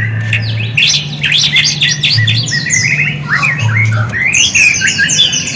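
White-rumped shama song used as a lure: a fast, varied run of chirps, whistled glides and harsh rasping notes, over a low steady hum.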